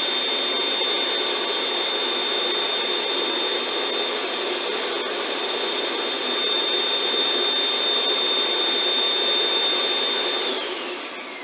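1500-watt snow machine's blower running steadily, a whooshing fan noise with a steady high whine. Near the end the whine falls in pitch and the noise fades as the machine winds down.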